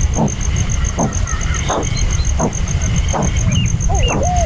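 Outdoor animal chorus: an insect's high, rapid pulsing trill runs throughout under a steady low rumble. Short animal calls repeat about every 0.7 s, with faint high bird chirps, and louder curved calls come in near the end.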